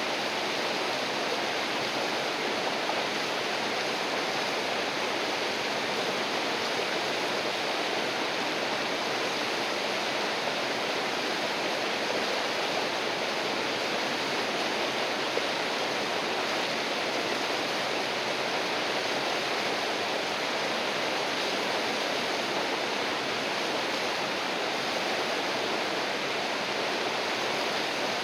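River water rushing and gurgling over rocks, a steady, unbroken flow.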